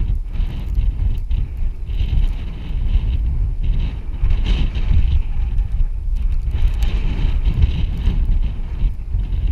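Wind buffeting the microphone over the low, uneven rumble of a vehicle moving along a trail.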